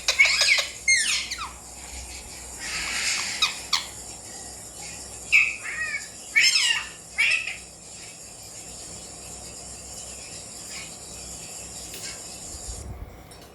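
Alexandrine parakeet squawking: a run of short, high calls that fall sharply in pitch, with one longer, rougher call about three seconds in. The calls stop after about seven seconds.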